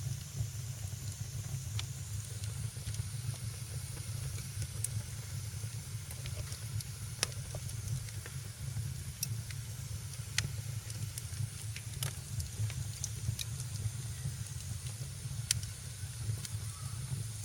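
Wood fire in a fireplace crackling: sharp pops at irregular moments over a steady low rumble and soft hiss.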